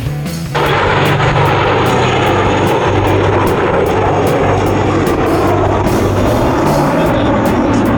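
Loud aircraft engine noise cutting in suddenly about half a second in and staying steady, over background music with a steady beat.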